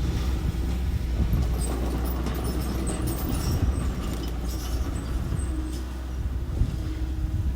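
Engine of a small construction machine running steadily with a low rumble, with scattered light clicks and clinks over it.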